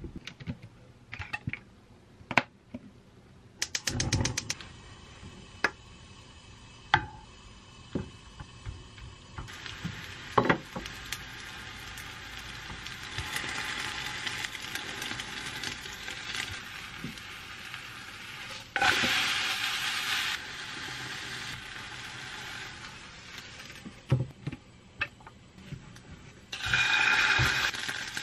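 Chicken-and-cabbage pancake batter sizzling in a ceramic non-stick frying pan. The sizzle starts about a third of the way in and swells twice more as batter is spread and pressed with a spatula. Before the sizzle there are scattered clicks and knocks of cooking utensils.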